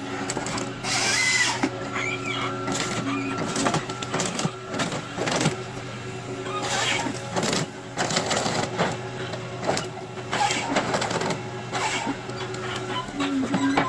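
Nisula 555H harvester head on a Volvo ECR145EL excavator working: the engine runs steadily under repeated clacks, knocks and short rasping bursts as the head grips, feeds and saws logs.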